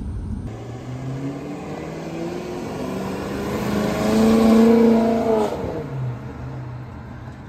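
Maserati Quattroporte's Ferrari-derived V8 driving past, its engine note climbing as it approaches and dropping away as it pulls off up the road. It is loudest about halfway through.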